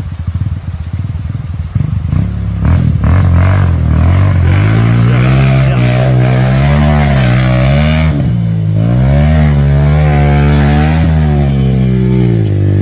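Dirt bike engine running under throttle: uneven and choppy for the first couple of seconds, then a strong steady note whose pitch climbs and falls again and again as the revs change, dropping away near the end.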